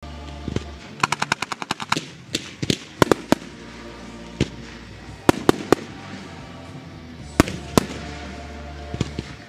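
Fireworks going off: sharp bangs of bursting shells, with a fast run of about ten cracks a second about a second in, then single and paired bangs spread through, over a steady low rumble.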